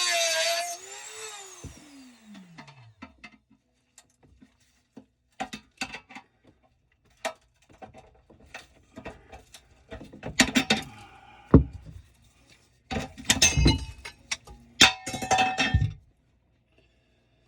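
A power tool's motor is cut off about half a second in and spins down, its pitch falling away over a couple of seconds. Then come scattered taps, clanks and short scraping clatters of hand tools working on metal under the sink, busiest in several short flurries near the end.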